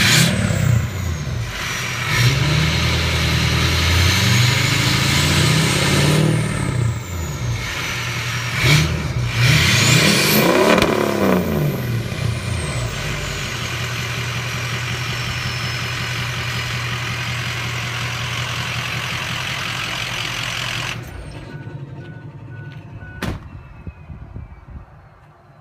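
Ford turbo-diesel pickup engine revved several times, with a high turbo whistle that rises and falls with each rev. It then settles to a steady run. Near the end the sound drops off abruptly, followed by a single sharp click.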